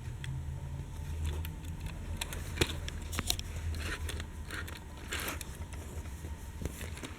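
Small clicks, taps and brief rustles of diecast toy trains being handled, over a steady low hum. The sharpest click comes a little over two and a half seconds in, and a short scraping rustle comes about five seconds in.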